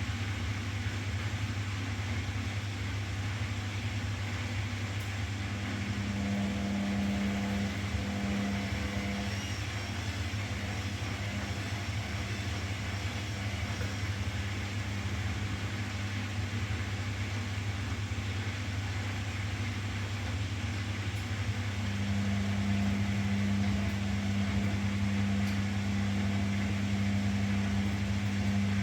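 Washing machine running: a steady low motor hum, with a higher drone that comes in for a few seconds about a fifth of the way in and again for the last quarter.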